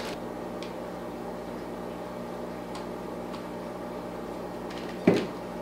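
Steady low hum with a few faint clicks, then one louder knock about five seconds in, as plants and their packaging are handled.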